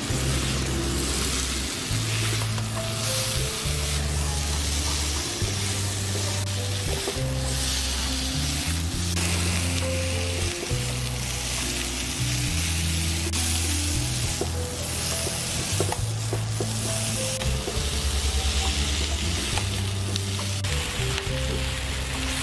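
Strips of boiled taro root (arbi) sizzling in oil in a nonstick frying pan while a spatula stirs and turns them. Background music with a slow, sustained bass line plays along.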